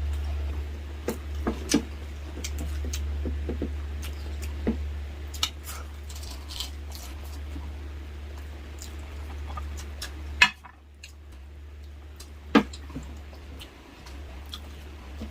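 Close-up eating sounds: soft wet chewing and smacking, with scattered small clicks and two sharp knocks of utensils on a plate, over a steady low hum.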